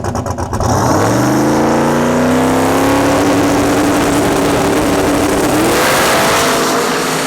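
Turbocharged LS V8 drag car under full throttle. The engine note climbs steeply about a second in, holds high and steady, then climbs again near the end.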